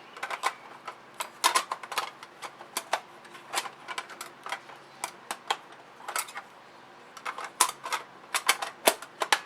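Irregular sharp clicks and taps of hard plastic as a DX Soul Bird toy is handled, its battery cover pushed and snapped at because it won't stay shut. Some clicks come in quick clusters of two or three.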